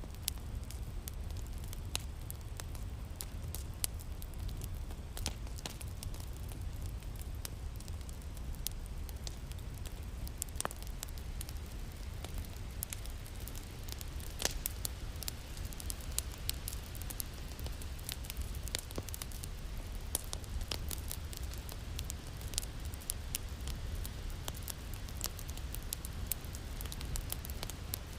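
Wood fire crackling in a fireplace: a steady low rumble of flame with many irregular small pops and snaps, a few of them louder than the rest.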